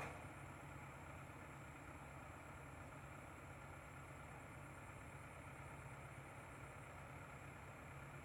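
An engine running steadily at an even, low pitch, faint, with a sharp click right at the start.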